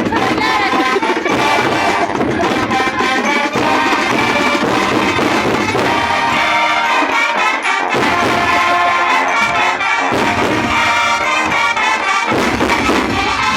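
Student brass band playing loudly, with sustained brass chords over steady drum and cymbal beats.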